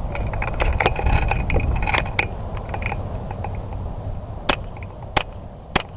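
Low wind rumble and a crackling rustle of movement, then three sharp cracks about two-thirds of a second apart near the end.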